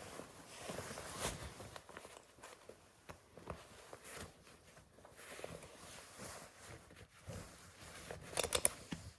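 Quiet rustling and handling of a horse blanket's straps and fastenings, with scattered small clicks and a quick cluster of sharp clicks near the end.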